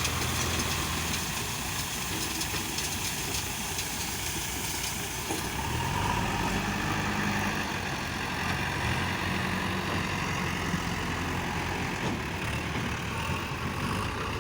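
Diesel engine of a JCB 3DX backhoe loader running, its note stepping up to a higher pitch about six seconds in and holding there.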